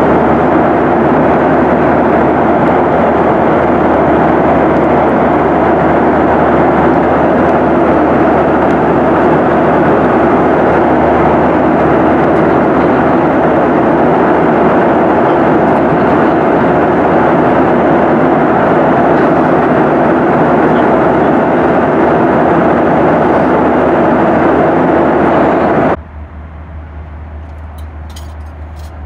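Steady, loud roar of jet engines and rushing air heard inside the cabin of a Boeing 737-900ER airliner. It cuts off abruptly about 26 seconds in, leaving a much quieter background with a few light clicks.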